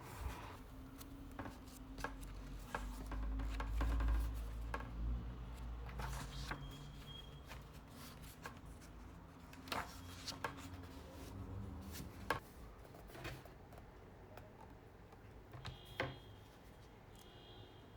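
Objects being handled and set down in a small room: scattered clicks and knocks, a few sharper ones, with a low rumble about three seconds in.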